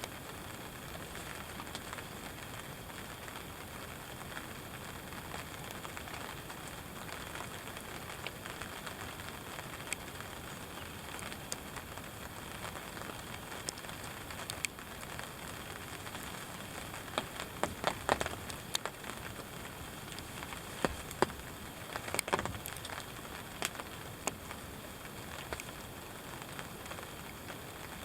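Steady rain pattering on a ground blind, with scattered sharp clicks and taps that bunch together about two-thirds of the way through.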